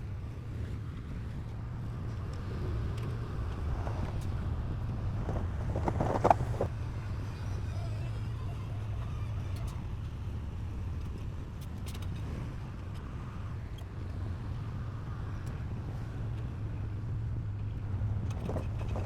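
Heavy diesel earthmoving machinery running steadily, a low engine hum throughout. About six seconds in there is one short, louder sound, higher-pitched than the engine.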